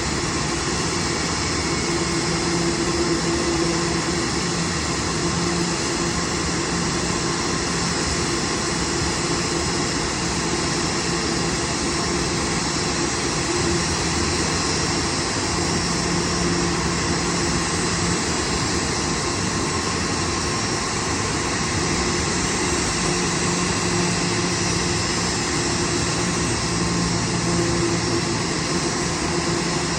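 Steady hum and rush of a parked airliner on the apron, with several held tones and no breaks, of the kind an auxiliary power unit or ground air-conditioning gives off.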